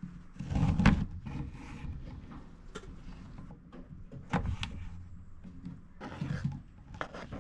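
Kitchen handling sounds during breakfast making: a louder rustling, clattering burst about a second in, then a scattering of sharp clicks and knocks of utensils and dishes.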